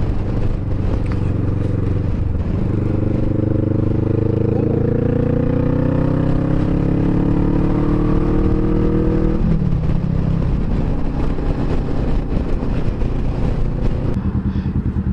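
Kawasaki Vulcan S motorcycle's 649 cc parallel-twin engine running under way, its pitch rising slowly for several seconds, then dropping suddenly about nine seconds in and settling into a steady lower note.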